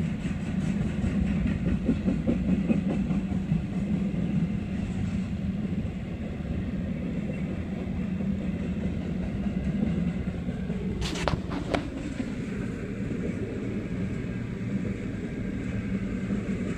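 CSX double-stack intermodal freight train rolling slowly past: a steady rumble of wheels on rail with some clickety-clack. Two short, sharp clanks come about two-thirds of the way through.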